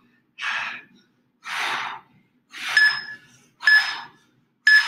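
Heavy, hard breathing during a strenuous exercise interval, one loud breath about every second. From about halfway in, three short beeps a second apart, an interval timer counting down to the rest.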